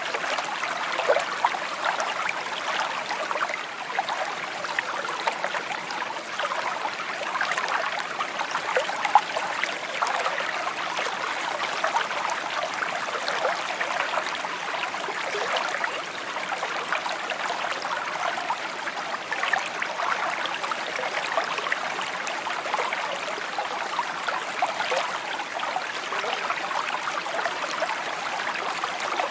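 Shallow brook babbling and trickling over stones, a steady flow of small splashes and gurgles.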